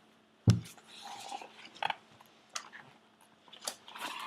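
A soft knock about half a second in, followed by scattered faint clicks and rustling.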